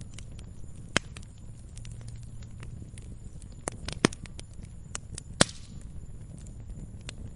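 Wood campfire crackling, with sharp pops and snaps at irregular intervals over a low, steady rumble of flame. The loudest snap comes about five and a half seconds in, followed by a brief hiss.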